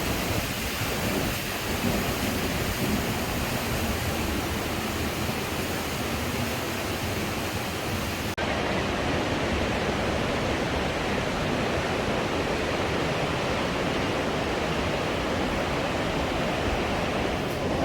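Rushing mountain river water churning through a narrow rock gorge, a steady loud roar. About halfway through the sound changes abruptly and loses some of its hiss.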